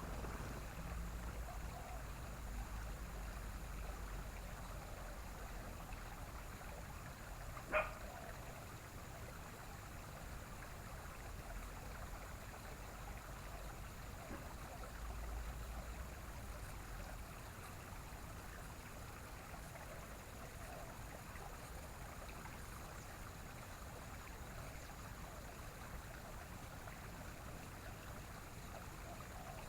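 Steady rushing, stream-like water ambience, with one short sharp click about eight seconds in.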